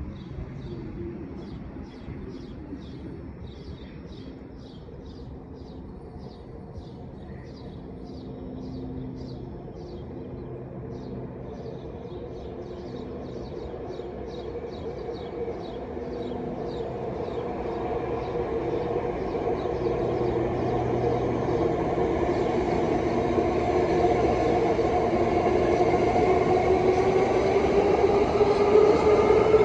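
BART train approaching at speed without stopping, growing steadily louder over the last dozen seconds, its motor whine rising in pitch near the end. A high chirp repeats about twice a second for the first twenty seconds or so.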